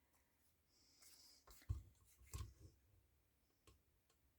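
Faint handling sounds at a craft table: a brief scratch about a second in, then a few soft knocks of paper and tools being set down.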